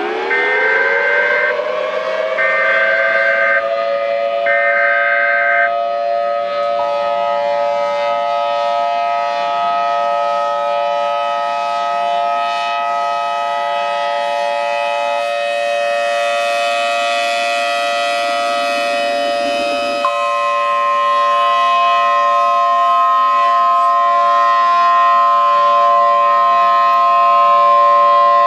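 Tornado warning siren winding up quickly from a low pitch, then holding a loud, steady chord of several tones. Three short high beeps sound over it in the first few seconds, and further tones cut in and out abruptly, with a sudden change in the sound about two-thirds of the way through.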